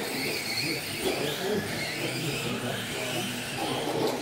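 Radio-controlled Tamiya model trucks racing round the track, their motors whining with several pitches that rise and fall as they speed up and slow.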